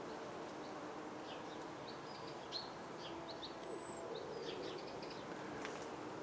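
Faint, steady hum of many bees foraging in a large flowering rhododendron. Scattered small bird chirps sound over it, with a thin, high, falling whistle twice.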